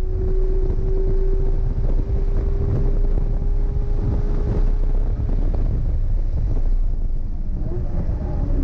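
Porsche engine running at full throttle down a long straight, its note climbing slowly with speed, under heavy wind rushing over the microphone. About five seconds in the engine note drops away as the car lifts off and brakes hard for the corner.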